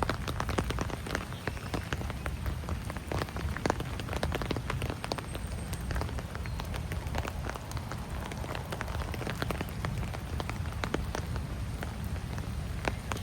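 Rain falling, with many irregular sharp drop ticks and taps over a soft hiss and a steady low rumble.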